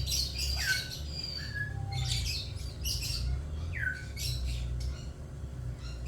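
Kite chick hatching from its egg, giving repeated short high peeps, a few sliding down in pitch.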